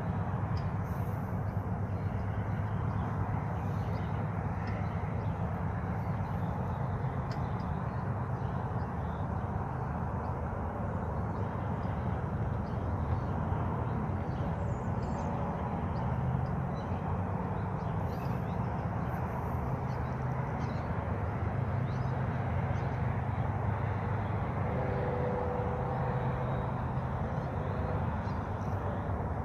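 Steady rushing of a waterfall, with faint, scattered bird chirps above it.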